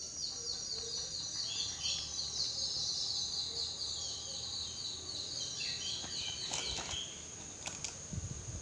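A small bird chirping in fast runs of high, quick notes that die away about seven seconds in, over a steady high-pitched whine. A few sharp clicks and low handling knocks come near the end.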